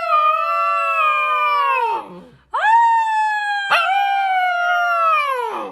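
A dog howling twice. The first long howl slides down in pitch and dies out about two seconds in. After a brief pause a second howl rises sharply, holds, then sags in pitch and fades near the end.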